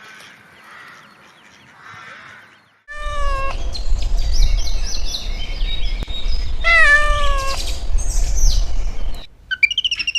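A cat meowing: two drawn-out meows that fall in pitch, about three and seven seconds in, among many quick high chirps and over a low rumble. The first few seconds are only a faint murmur.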